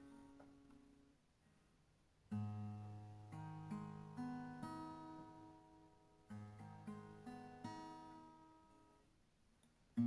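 Background music on acoustic guitar: slow phrases of plucked notes that ring and fade away. A new phrase starts with a strong low note about two seconds in and again about six seconds in.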